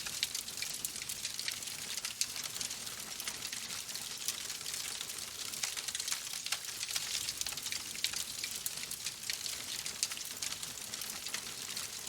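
Steady rain: an even hiss of falling rain with many sharp ticks of single drops striking a surface.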